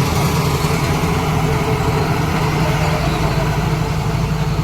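Large farm diesel engine running steadily with a constant low hum and mechanical clatter.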